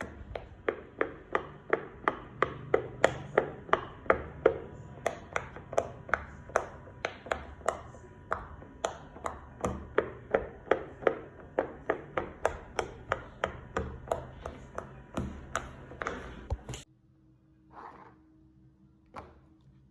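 A fidget toy being tapped or clicked in a fast, even rhythm, about three sharp clicks a second, which stops suddenly near the end.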